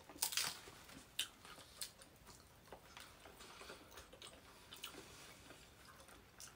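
People chewing pizza: faint, scattered crunches and mouth clicks.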